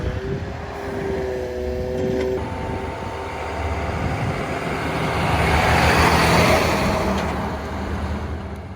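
Utility truck engine running, with a steady whine for the first couple of seconds. A broad rush of noise swells to a peak about six seconds in and then fades.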